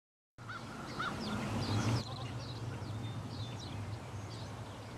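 Many short, high animal calls in quick succession over a steady low hum, starting about half a second in.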